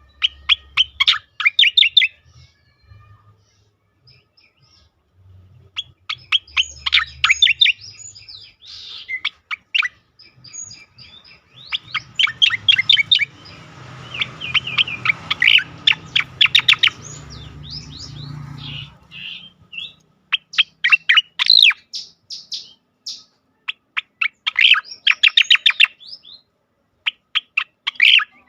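Cica koreng (striated grassbird) singing its loud ngejoss song: phrases of rapid, chattering high notes, each a second or two long, repeated with short pauses.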